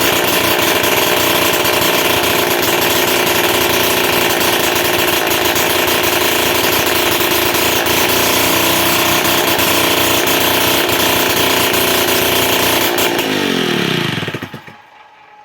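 Puch Pony Express moped's single-cylinder two-stroke engine running steadily with a fast rattling beat, then shut off about 13 seconds in, its pitch falling as it runs down to a stop.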